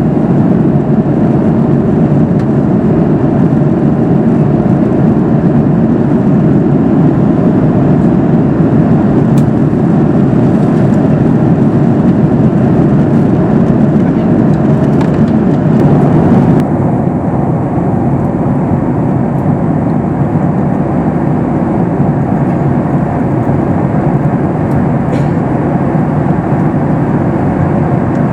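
Steady cabin noise of a Boeing 737 MAX 8 in flight: a loud, even rush of airflow and engine noise. About two-thirds of the way through, the upper hiss drops out suddenly and the roar becomes duller.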